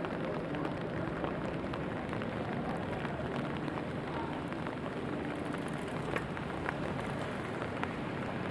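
Rain falling steadily, a continuous hiss with scattered sharp ticks of individual drops.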